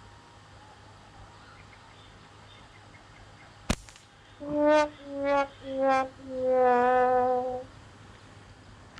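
A single sharp click, then about half a second later three short horn-like notes and one longer one, all at the same steady pitch.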